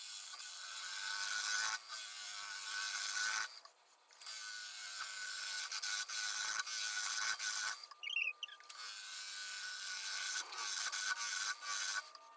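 Bowl gouge cutting a spinning cottonwood blank on a wood lathe: a steady hiss of shavings over a steady whine, breaking off briefly twice.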